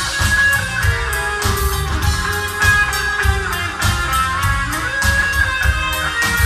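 A pop-rock band playing an instrumental break: a lead melody with sliding, held notes over bass and a steady drum beat.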